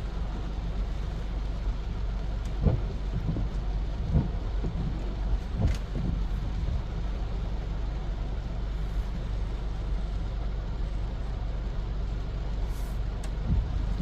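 Steady rain hiss over a low continuous rumble, with a few dull thumps, the loudest about three, four and six seconds in.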